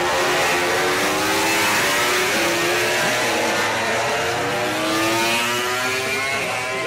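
Several MotoGP racing motorcycles' four-cylinder engines at high revs, their notes overlapping and rising through the gears.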